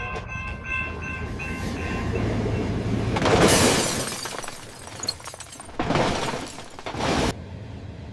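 Synthetic railroad-crossing sound: a crossing bell ringing in even strokes for about two seconds over a low train rumble, then a loud rushing surge of a passing train a little after three seconds and another about six seconds in, which cuts off suddenly.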